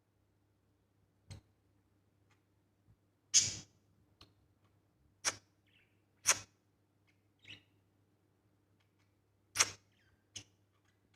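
Pet Australian parrots giving short, sharp, high calls at irregular intervals, about seven in all, three of them loud. A faint steady hum lies underneath.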